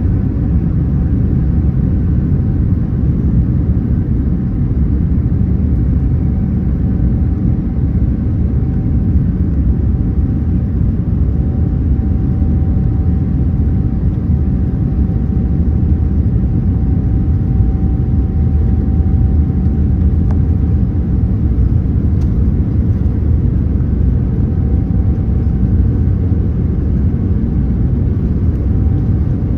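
Steady low rumble of a Boeing 787-9 passenger cabin in flight: engine and airflow noise, even throughout, with a faint steady hum over it.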